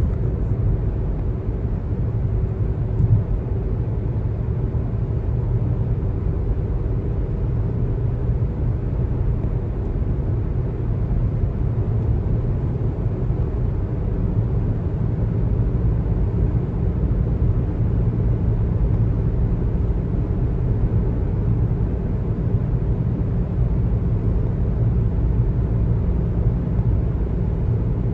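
Car driving on the road: a steady low rumble of tyre and road noise, with a brief knock about three seconds in.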